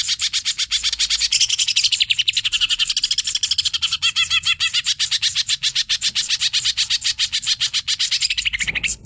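Greater green leafbird (cucak ijo) singing an unbroken, rapid stream of sharp chattering notes, about ten a second, with a brief pause near the end.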